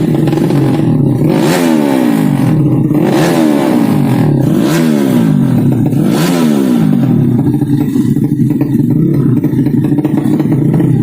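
A tuned 200cc underbone race motorcycle engine running loudly at a fast idle while the throttle is blipped about four times, the pitch rising and falling quickly with each rev, then settling back to a steady idle.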